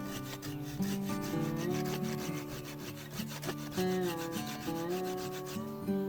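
Hand tool working wood in quick repeated strokes, a rasping sawing or scraping sound, over acoustic guitar music.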